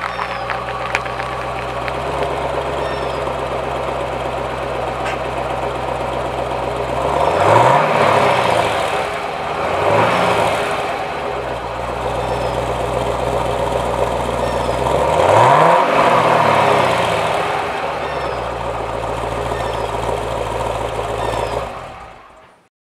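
2014 Camaro SS's 6.2-litre V8 idling through its exhaust, revved three times with quick rises and falls in pitch, the middle rev shorter; the sound fades out near the end.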